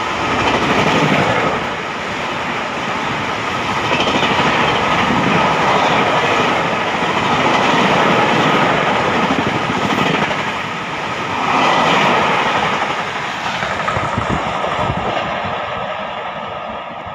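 Coaches of an express passenger train rushing past at high speed: wheels running on the rails, swelling and dipping as the coaches go by. The noise fades away near the end as the last coach passes and the train recedes.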